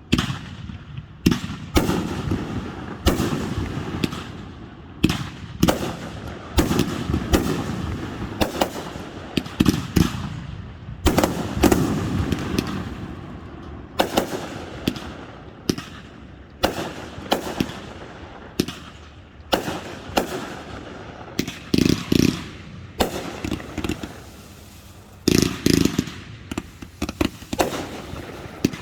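Aerial fireworks display: a rapid, irregular run of shell bursts, often several a second, each bang followed by rumbling echo and crackle.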